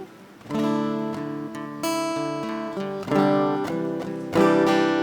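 Acoustic guitar strumming slow sustained chords, a new chord about every second and a quarter: the instrumental lead-in to a sung worship chant.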